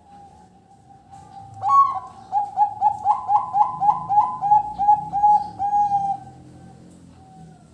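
Zebra dove (perkutut) cooing its song: a loud opening note about two seconds in, then a quick run of about a dozen short rising coos, around three a second, ending a little after six seconds.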